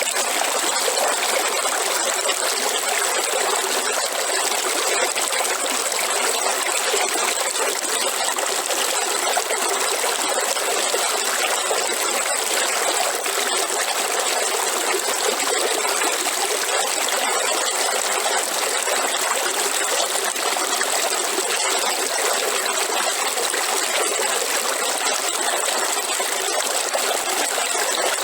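River water running steadily over stones, a continuous even rush with no pauses.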